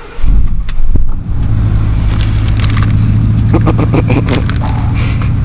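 Car engine starting with a loud surge, then settling into a steady idle.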